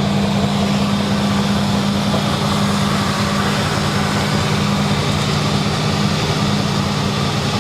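1976 Ford Econoline E150 van engine idling steadily with an even low hum. It is running off a temporary fuel supply that bypasses its restricted original fuel tank and fuel line.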